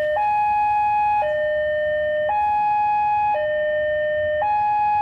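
Two-tone electronic warning alarm alternating high and low, about one second on each tone, repeating steadily.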